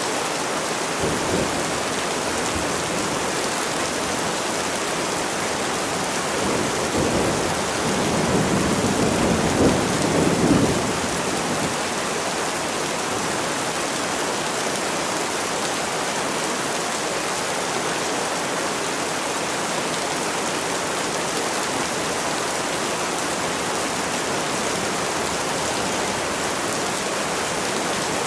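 Steady heavy rain falling, with a low rumble of thunder that swells about seven seconds in and dies away about eleven seconds in.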